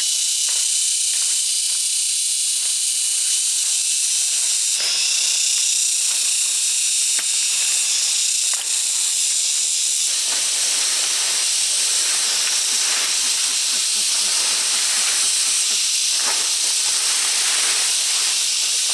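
A loud, steady high hiss with a few faint steady high tones in it, and an occasional light knock.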